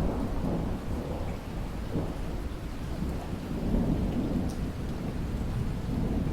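Heavy rain with a low, continuous rumble of thunder that swells and eases.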